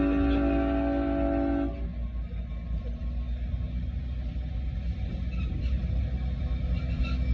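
Train horn sounding a held chord of several notes, cutting off about two seconds in, followed by the steady low rumble of the train running.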